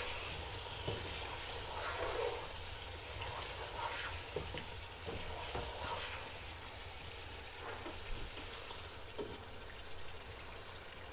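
Mutton, potatoes and spice masala sizzling in hot oil in a pot as a slotted spoon stirs them, with scraping strokes through the food and light taps of the spoon on the pot, busier in the first half. This is the bhuna stage, frying the meat and spices together in oil.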